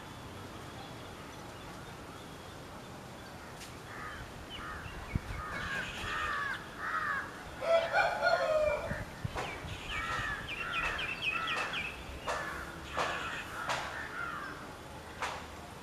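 Birds calling outdoors in a run of short, repeated calls that begin about four seconds in. The loudest and lowest call comes near the middle, and a quick higher chatter follows shortly after.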